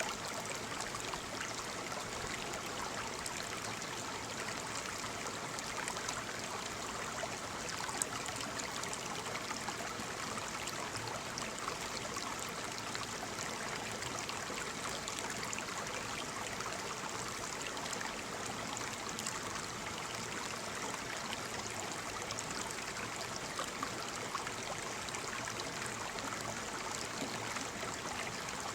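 Waterfall: a steady rush of falling, splashing water, with small sharper splashes now and then.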